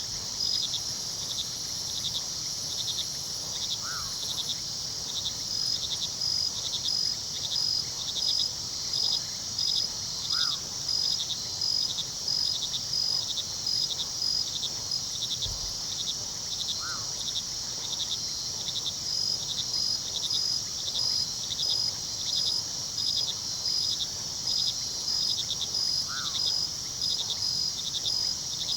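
Crickets chirping in a dense, steady night chorus with an even, rhythmic pulse, over a low, steady rush of river water. A faint short call sounds about every six seconds.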